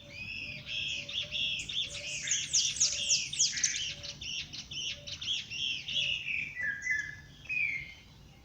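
A songbird singing a long, fast, unbroken song of rapid arched whistled notes, with a run of quick downward-sweeping notes in the middle, tapering off near the end.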